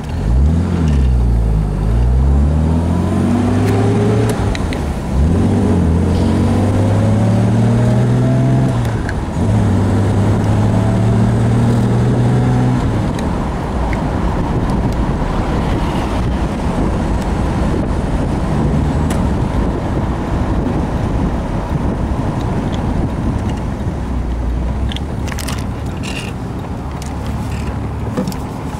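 1969 Jaguar E-type's 4.2-litre straight-six accelerating through the gears of its four-speed: the engine note rises and drops back at each shift, then holds steady. About halfway through, the engine note fades and steady road and wind noise takes over.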